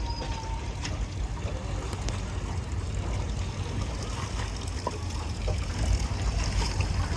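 Riverboat's engine running with a steady low rumble under the wash of river water trickling and gurgling along the hull as the boat slows down.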